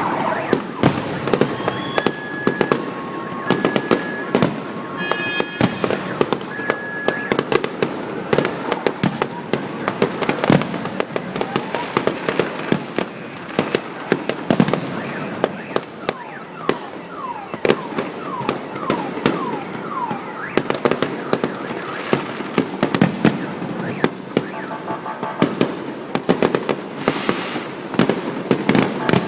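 Fireworks display: a dense, continuous run of sharp bangs and crackling. An alternating two-note tone sounds in the first several seconds, and a series of falling whistles comes about two-thirds of the way in.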